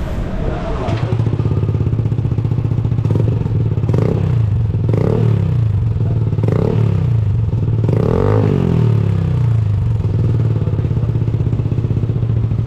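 Motorcycle engine idling through an aftermarket Achilles full-system exhaust and blipped four times in quick rising-and-falling revs, the last and biggest about eight seconds in, before settling back to a steady idle.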